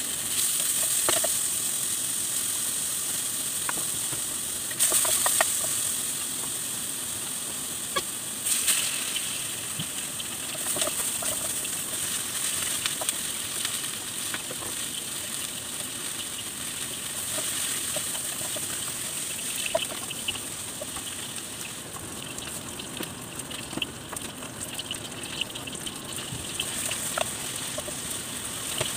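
Bacon and snow peas sizzling in a frying pan: a steady hiss with scattered pops and clicks, and a couple of sharper clatters about five and eight seconds in.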